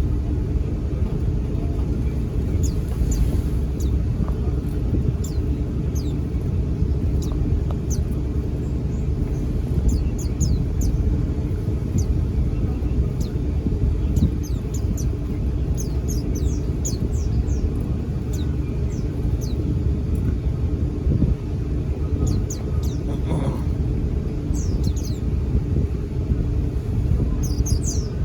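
White-eyes (pleci) giving short, high, thin chirps, scattered and now and then in quick runs, over a loud steady low rumble.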